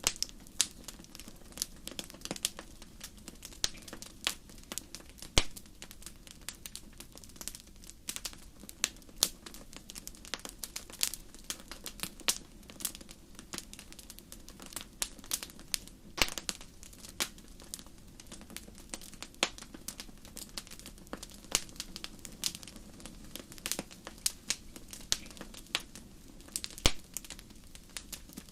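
Wood fire burning in a fireplace: a constant low hiss with frequent sharp, irregular crackles and pops of burning logs.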